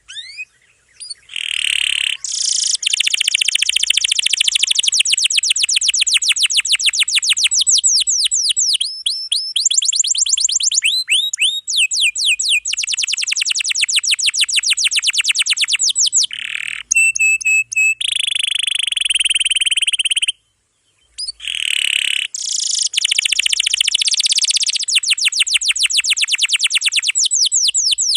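Domestic canary singing in long rolls: fast runs of rapidly repeated, sweeping high notes, one trill tour running into the next. There are brief pauses about a second in and just after twenty seconds.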